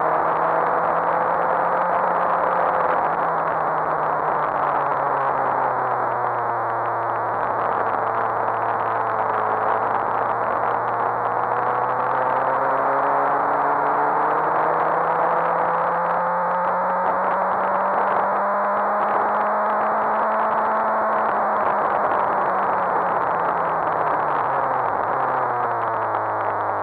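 Onboard sound of a Suzuki GSX-R 1000 K7's inline-four engine at track speed, its note rising and falling slowly with the throttle under a heavy rush of wind. Near the end the pitch drops steeply as the bike slows for a corner.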